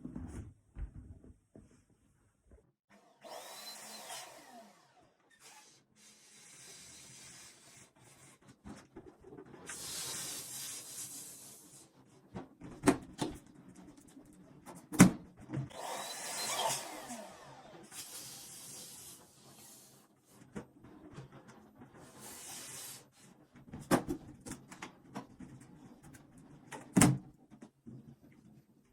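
Electric balloon inflator blowing air into latex balloons in repeated short bursts of one to two seconds. Between the bursts there are rubbery squeaks and a few sharp snaps from the balloons being handled and tied.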